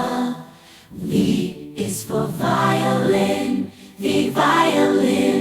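A children's alphabet phonics song: sung voices over backing music, with short breaks between phrases.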